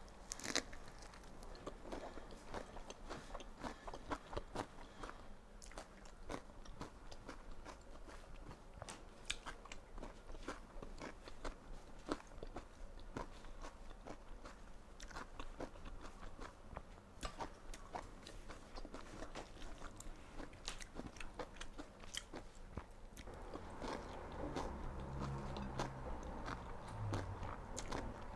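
Close-up mouth sounds of eating spring rolls: repeated crunchy bites and chewing, irregular and unhurried.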